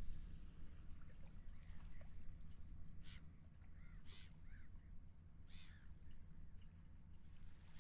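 Seagulls calling several times, the calls clustered in the middle, over a steady low rumble of wind and water.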